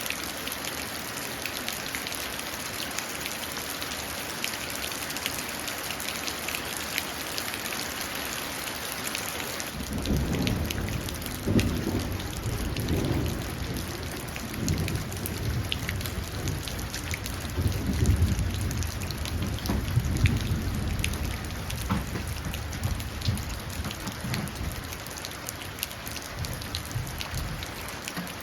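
Steady rain pattering and dripping into a puddle. About ten seconds in, a long roll of thunder comes in, rumbling in several swells and slowly fading over about fifteen seconds.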